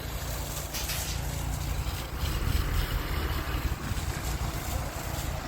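Steady low engine rumble with a rushing noise over it, like wind on the microphone.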